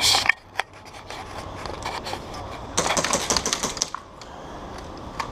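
Airsoft guns firing in an indoor game: a loud pop at the start, a few single shots, then a rapid burst of clicks lasting about a second near the middle.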